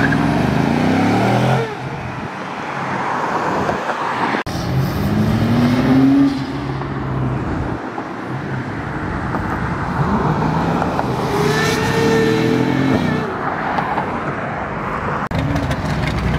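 High-performance cars accelerating hard past one after another, each engine revving up in a rising pull. There are about three separate pulls, with sudden breaks between them.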